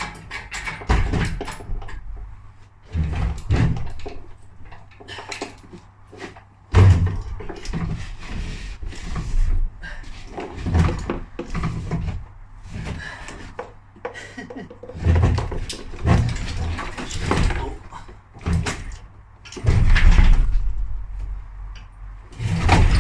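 Irregular metal clanks, knocks and scraping as an engine and gearbox are worked up and out of a car's engine bay, with a faint steady low hum underneath.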